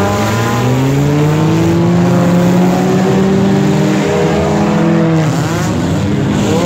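Figure-8 derby car engines revving hard on the dirt track. The main engine's pitch climbs over the first couple of seconds and holds, drops sharply about five seconds in, then climbs again.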